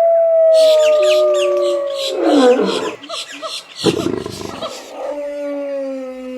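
Layered wild animal calls: a long howl sliding slowly down in pitch, a fast chattering call repeating about four times a second, and a short deep roar about four seconds in.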